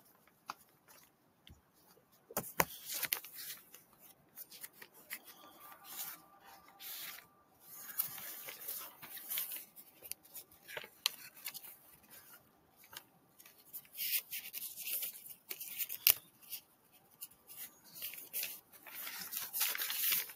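Scattered rustling and handling noises with occasional sharp clicks, one sharper click about two-thirds of the way through.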